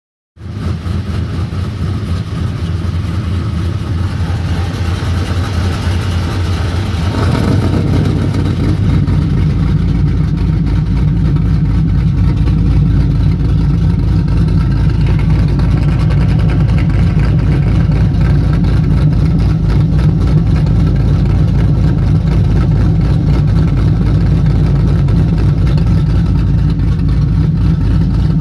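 Pontiac GTO V8 with an aftermarket cam, running through an exhaust fitted with cutouts. It starts sounding just after the beginning, and about seven seconds in it settles into a louder, deeper, steady run.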